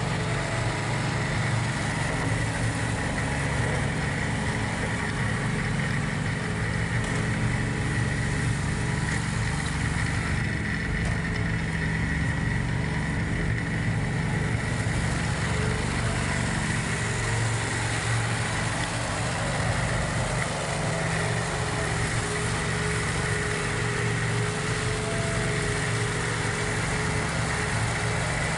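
John Deere 4110 compact tractor's three-cylinder diesel engine running steadily, with a steady high whine alongside.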